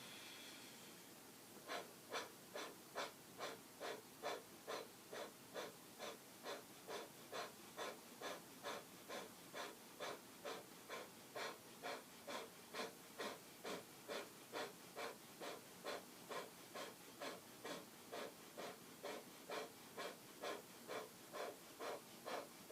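Kapalabhati breathing: short, sharp exhalations forced out through the nose by thrusts of the low belly, about two and a half a second in an even rhythm, starting about a second and a half in.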